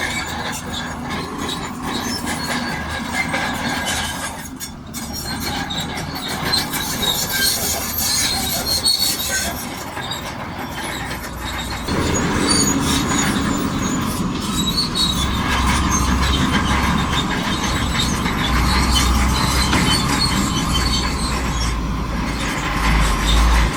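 Crawler bulldozer working, its steel tracks squealing and clanking over a running diesel engine. About halfway through, the engine's low rumble grows heavier, as under load, and stays so.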